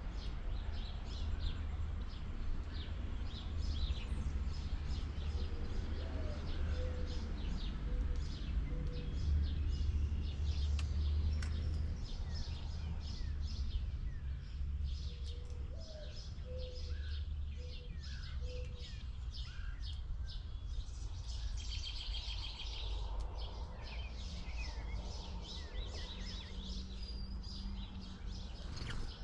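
Wild birds chirping and calling over and over, with a denser burst of chirping near the end, over a steady low rumble.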